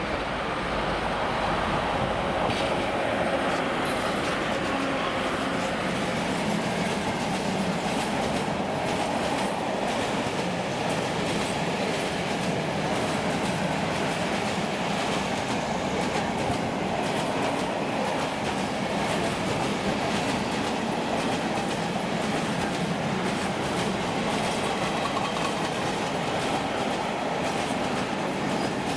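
Train running on rails, a steady rumble with wheels clicking over the rail joints.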